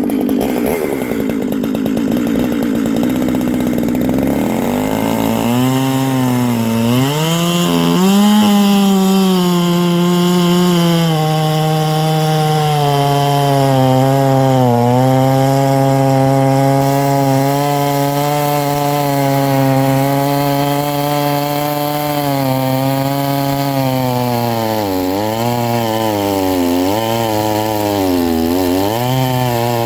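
Ported Stihl 044/046-type chainsaw with a custom tuned exhaust running hard, its pitch climbing over the first several seconds and then holding high. Late on it dips in pitch several times, typical of the engine loading down as it cuts wood.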